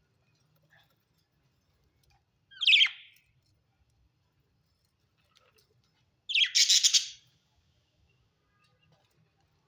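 Budgerigar giving two loud calls: a short one about two and a half seconds in, and a longer one lasting about a second that starts a little after six seconds in.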